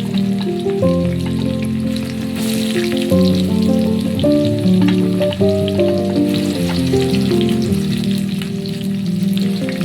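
Food frying in hot oil in a pan, with a steady crackling sizzle, under background music with a slow melody.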